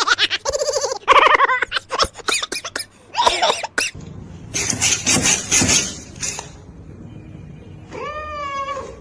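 A pet cat meowing, with a long meow near the end that rises and then falls in pitch. Clicks and scuffing noises come in between.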